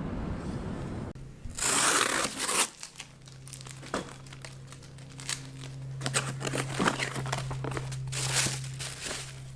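Crinkling and rustling of something being handled, in irregular bursts with rapid crackles, over a steady low hum.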